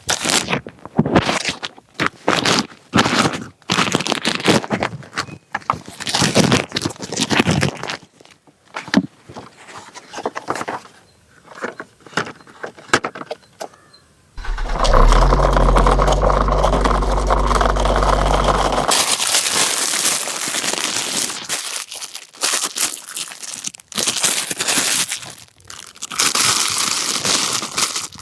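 Plastic and cardboard toy packaging being handled, crinkled, scraped and torn, in many short crackles. About halfway through, a loud steady hum runs for around four seconds, then the rustling and crinkling resumes.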